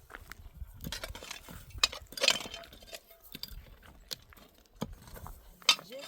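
Scattered clinks and knocks of hard objects being handled, with a louder scrape about two seconds in and a sharp knock near the end.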